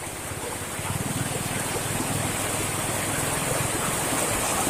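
Steady rain falling, with a motorcycle engine fading as the bike rides off.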